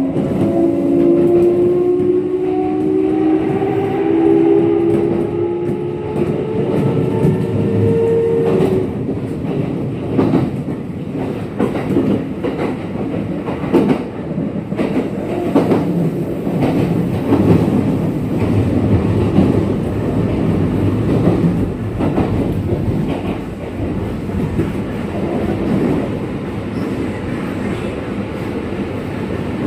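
Kintetsu 1233 series electric train heard from inside the car. For about the first nine seconds the motor and inverter tones step up in pitch as it accelerates, then they give way to steady running noise with repeated wheel clicks over rail joints. This set, VE46, is singled out as an unusual-noise car compared with a normal 1233 series.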